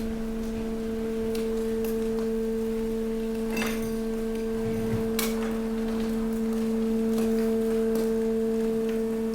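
Hydraulic waste compactor pressing mixed waste: a steady hum from its hydraulic pump and motor, with a few sharp cracks of waste giving way under the ram.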